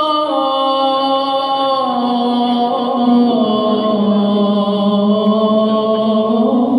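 A man's voice chanting the Shia call to prayer (adhan), drawing out a 'Allahu akbar' phrase in one long melismatic line that steps slowly down in pitch.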